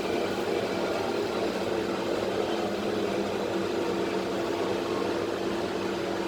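Interior of a London Underground Central line 1992 Stock train running between stations: a steady rumble with an even hum from the traction equipment.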